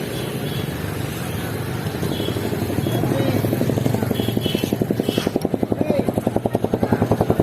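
An engine running with a fast, even throb that grows louder over the last few seconds, with a few bird chirps over it.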